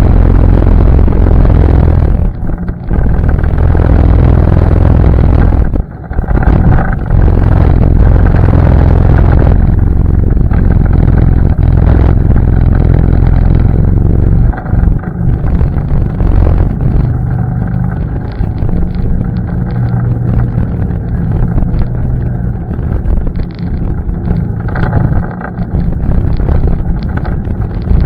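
ATV engine running loudly as the machine is ridden. The sound drops briefly twice in the first few seconds and runs somewhat quieter through the second half.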